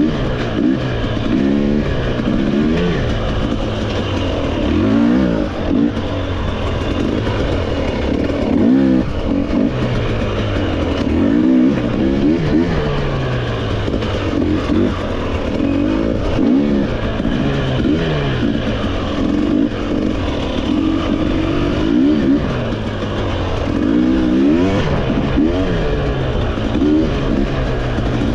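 Off-road motorcycle engine being ridden hard, its pitch rising and falling every second or two as the throttle opens and closes, without a break.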